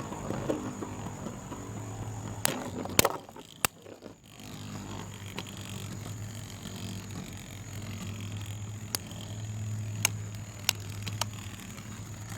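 Two 3D-printed Beyblades spinning in the battle stadium with a steady low whir, clashing with sharp clacks a few times about three seconds in and again several times in the last few seconds.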